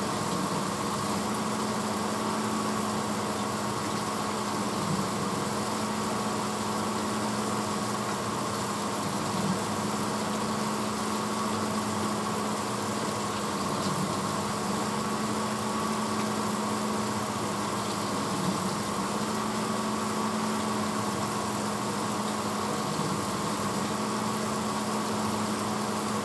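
1986 Hotpoint Potwasher dishwasher running mid-cycle: a steady motor hum under an even rush of noise, with no pauses or changes.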